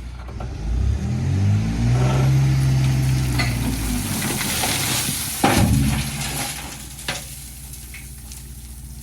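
JCB 3DX backhoe loader's diesel engine revving up under hydraulic load, then a noisy rush with a few knocks as a load of murum (gravel and soil) is dumped into a truck bed, after which the engine settles back to a lower, steady run.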